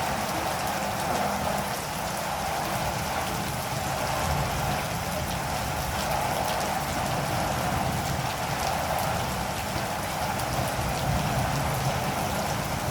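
Steady rain falling, with a dense patter of drops on a surface and a low rumble beneath.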